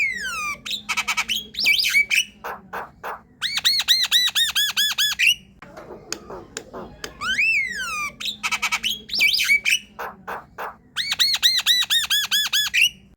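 Javan myna (jalak kebo) singing: an up-and-down whistled note, a spell of sharp clicks and harsh chatter, then a fast run of repeated arching notes. The same phrase plays twice, about seven seconds apart.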